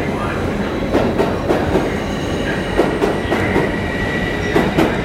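NYC Subway R142A train cars rolling along the track. The wheels clack over rail joints in pairs every second or two over a steady rumble, with a thin high wheel squeal rising in the second half.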